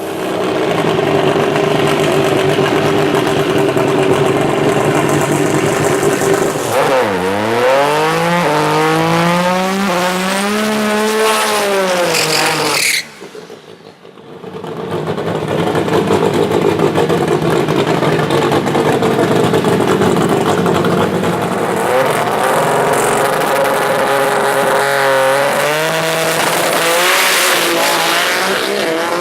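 Twin-turbo Nissan VQ35 V6 drag-race engine running loud. Its pitch dips and then climbs for several seconds before the sound cuts off abruptly about halfway through. It then comes back and runs at high revs again, with further rises in pitch near the end.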